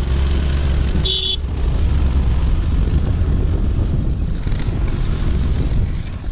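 A two-wheeler riding along, its engine and wind buffeting the microphone making a steady low rumble. A horn toots briefly about a second in.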